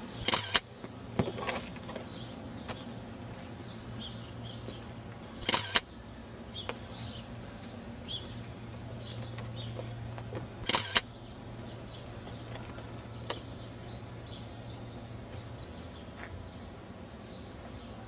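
Birds calling: a few loud, harsh squawks spaced several seconds apart, with faint high chirps in between, over a steady low hum.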